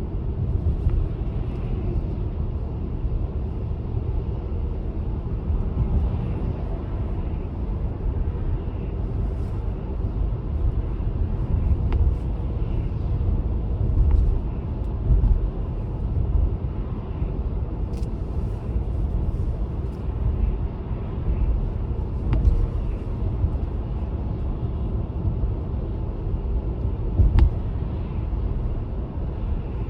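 Car driving, a steady low rumble of engine and tyre noise, with a few faint clicks.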